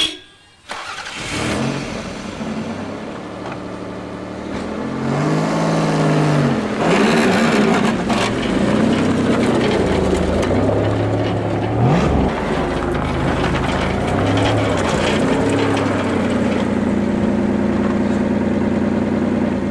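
Toyota sedan's engine running as the car is driven, the engine note rising and falling repeatedly as it revs and pulls away, with a sharp thump about twelve seconds in. Near the end it settles to a steady note.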